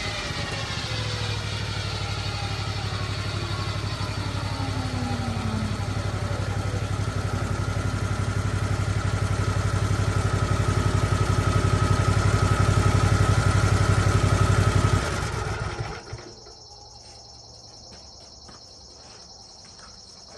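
Small portable sawmill engine running steadily, growing a little louder, then shut off about fifteen seconds in. After it stops, insects chirp steadily in the background.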